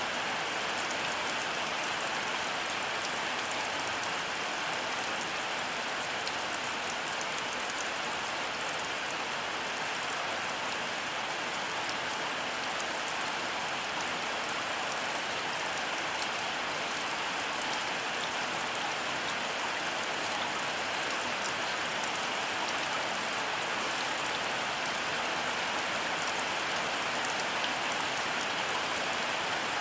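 Heavy rain falling steadily and evenly, with many individual drops ticking close by. No thunder is heard.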